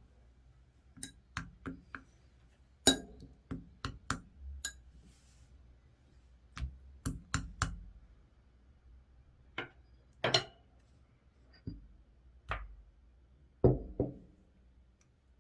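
Blue 'ice cream' slime being handled in its container: about twenty sharp clicks and knocks in irregular clusters, the loudest about three seconds in and near the end.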